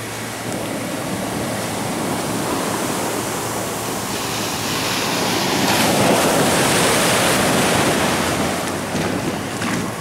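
Ocean waves breaking and washing in, a steady rush that swells about halfway through and eases near the end.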